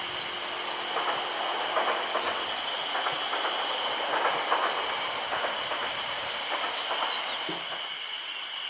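Train wheels clattering over rail joints as a train passes: a run of uneven clacks that begins about a second in and dies away near the end.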